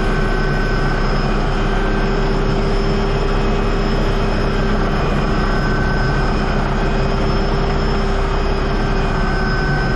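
Aircraft propeller engines running steadily: a constant loud drone with a fixed hum.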